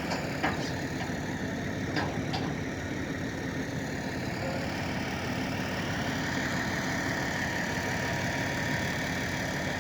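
An engine running steadily at idle, with a few short clicks in the first couple of seconds.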